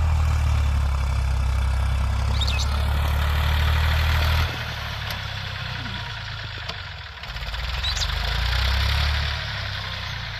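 Tractor's diesel engine running while ploughing, loud and steady at first. About four and a half seconds in its sound drops sharply, swells again for a couple of seconds near eight seconds, then falls back.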